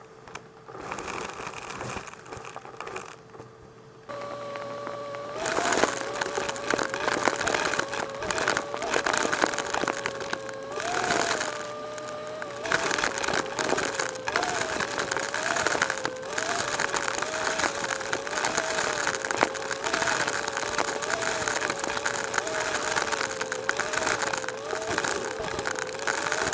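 Numatic tub vacuum cleaner switching on about four seconds in, after a few seconds of crinkly handling noise. It then runs loudly, its motor whine dipping and rising in pitch about once a second as the airflow changes, with many small clicks and rattles.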